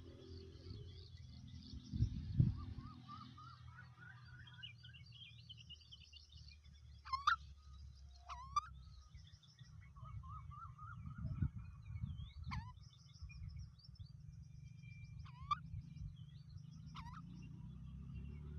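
Myna calling: sharp sweeping whistled calls every couple of seconds over a continuous chatter of chirps, with a low rumble underneath.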